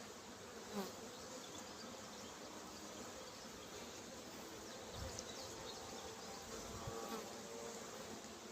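Honeybees buzzing around an opened hive brood box: a steady, faint hum with wavering pitches. A brief louder sound about a second in and a few low bumps come through over it.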